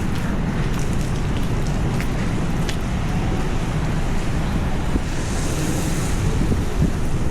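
Heavy rain on a city street, mixed with the steady low rumble of traffic and wind on the microphone, and a brief hiss about five seconds in.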